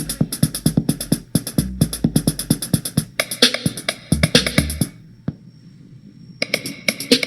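Bass-heavy electronic music with a fast drum-machine beat, played at full volume through a Zealot S36 portable Bluetooth speaker. The beat drops out for about a second and a half at around five seconds in, then returns.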